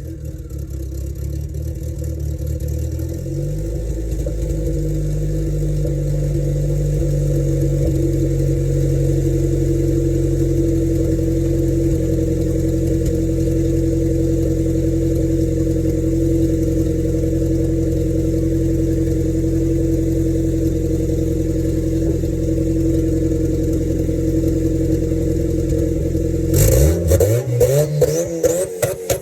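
Turbocharged 1995 Honda Civic four-cylinder engine, straight-piped out the front fender, running loud. Its pitch climbs over the first few seconds and holds steady, then several quick revs rise and fall near the end.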